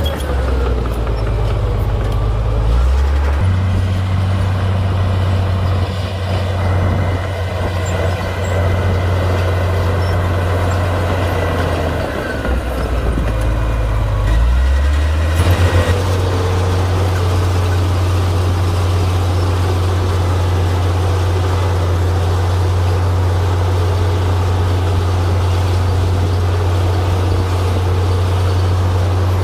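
Komatsu D58P bulldozer's diesel engine running under load. Its note sinks lower twice, from the start to about three seconds in and again for a few seconds near the middle, before picking back up.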